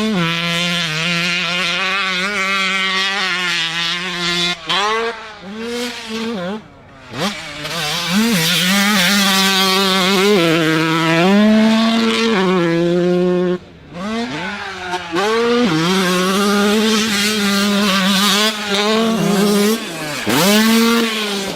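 Two-stroke motocross bike engine revving hard, its pitch climbing and dropping again and again as the rider shifts gears and rolls on and off the throttle. Three times the throttle is chopped and the engine goes briefly quiet.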